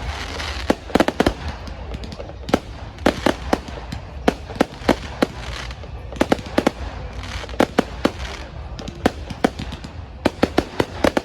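Fireworks going off in a rapid, irregular string of sharp bangs and crackles, several a second, with no pause.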